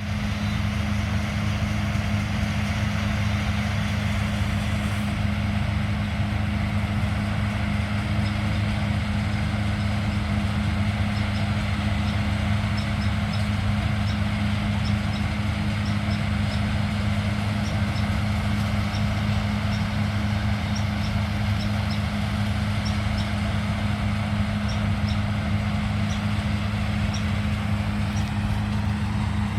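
Engine of a heavy farm machine running steadily with a deep, even hum, with faint light ticks over it from about eight seconds in.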